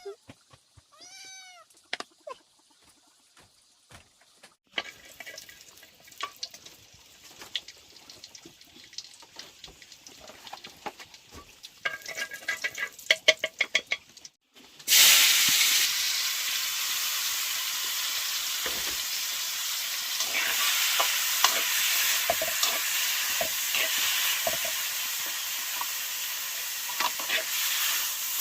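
Food frying in a pan, a loud steady sizzle that starts suddenly about halfway through. Before it come irregular clinks and scraping, and near the start a short animal call.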